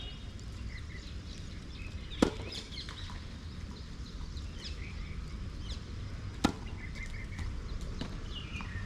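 Two sharp knocks about four seconds apart, most likely a tennis racket striking the ball, over steady background noise, with small bird chirps between them.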